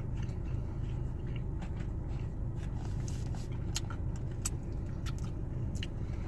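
Steady low hum of a car heard from inside the cabin, with scattered faint clicks of someone chewing a sandwich.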